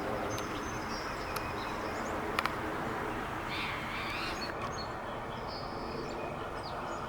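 Faint, short high chirps of small birds over a steady outdoor background hum, with two sharp clicks a little over two seconds in.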